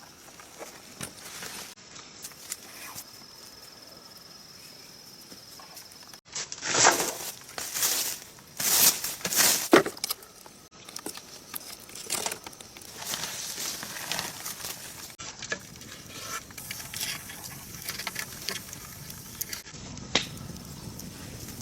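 Rustling and crackling, in several short cut-together stretches, loudest in a run of rustles about a third of the way through.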